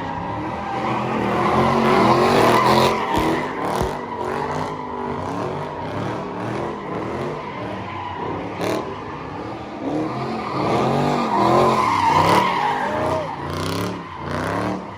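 Car engines revving hard, their pitch sweeping up and down again and again, over a steady squeal of spinning tires.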